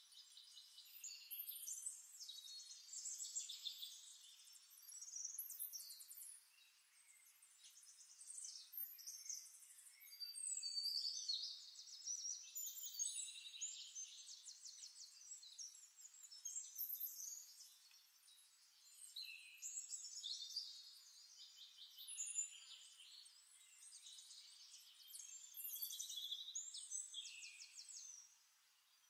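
Faint high-pitched chirps and rapid trills of birdsong, coming in bursts every few seconds with short lulls between, thin-sounding with no low end at all.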